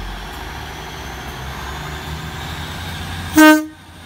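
Class 150 Sprinter diesel multiple unit's underfloor diesel engine running as the train pulls away. Near the end the train's horn gives one short, very loud toot.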